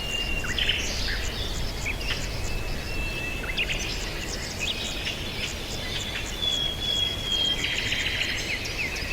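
Several small birds chirping and twittering in quick short calls, over and over. Among them, a thin high note is held steady for a second or two several times, like an insect trill. Under it all is a low, even background hiss.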